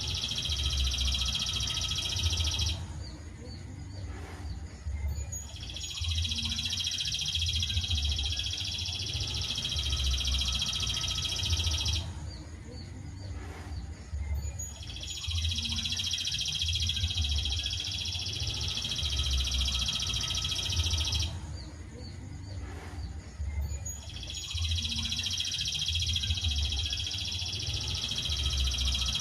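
Songbird singing a long, dense, high trill that lasts about six seconds at a time, with pauses of about three seconds between trills, three times over.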